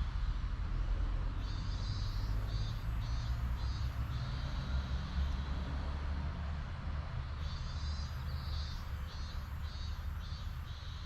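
Outdoor ambience with a steady low rumble and a steady high hiss. Over it come two runs of quick high chirps, about three a second, starting about a second and a half in and again about seven and a half seconds in.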